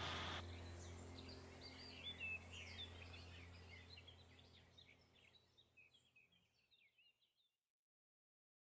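Near silence: faint small birds chirping outdoors over a low background hum, both fading out to complete silence near the end.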